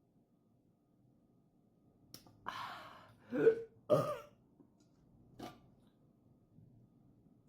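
A person's short throat noises: a breathy rush, then two loud, short voice-like sounds in quick succession, with a light click before and another after.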